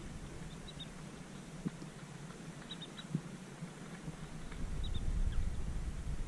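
Faint high bird calls, short notes in pairs or threes repeated about every two seconds, over a low rumble that grows louder toward the end.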